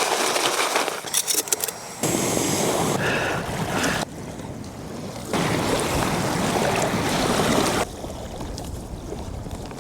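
Camp stove burner running under a pot of beans: a steady rushing hiss. It changes level abruptly several times, louder for stretches and then softer.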